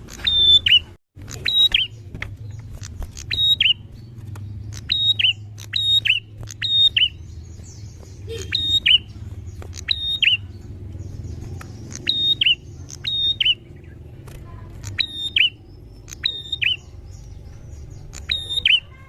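A prenjak (prinia) calling over and over. Each call is a short, sharp high note followed at once by a quick lower note, repeated at uneven gaps of about half a second to two seconds, over a steady low background hum.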